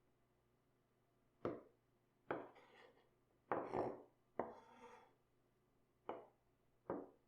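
A knife cutting through cabbage on a cutting board: about six crisp cuts, spread unevenly, some with a short crunch after the stroke.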